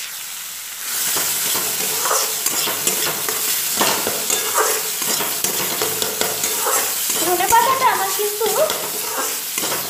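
Coriander-leaf and green-chilli paste sizzling in hot oil in a steel kadai while a flat steel spatula stirs and scrapes it across the pan, with short squeaks of metal on metal. The sizzle gets louder about a second in. The masala is being fried until its oil separates.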